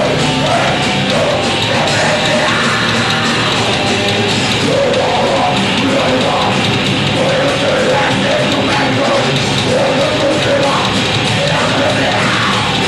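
A live rock band playing loud, heavy metal-style music.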